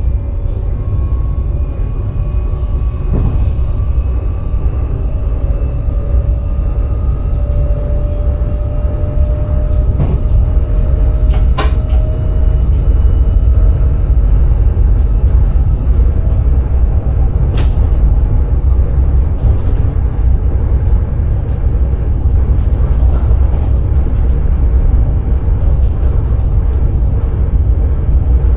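Electric sprinter train running, heard from the driver's cab: a heavy low rumble of wheels on track, with the traction motors' whine slowly rising in pitch as the train gains speed. A few sharp clicks break through.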